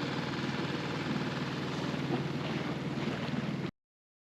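Small boat's outboard motor running steadily, with wind buffeting the microphone and water noise. The sound cuts off abruptly near the end.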